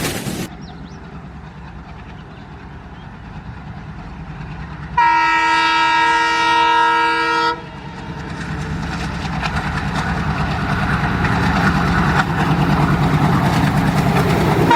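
Express train approaching at speed: a low rumble building, then the locomotive's horn sounding one steady chord for about two and a half seconds, then rapid wheel clatter over the rail joints growing louder as the train passes.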